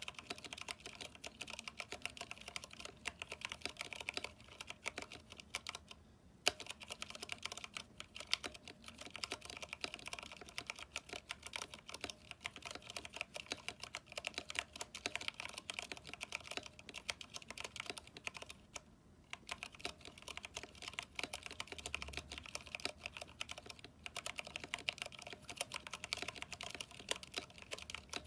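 Continuous fast typing on a mechanical keyboard with Cherry MX Brown switches and thick PBT keycaps, keys clacking rapidly, with two short pauses, about 6 and 19 seconds in.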